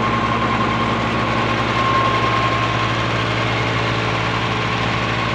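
Fiat 480 tractor's three-cylinder diesel engine running steadily, with a steady high whine over the engine note.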